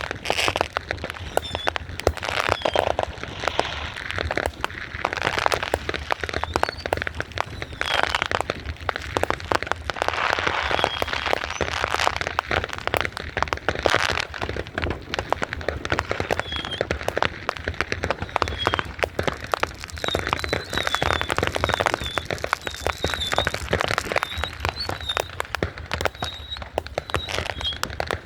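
Fireworks going off without a break: dense crackling and popping that swells and eases, with short high whistles in the second half.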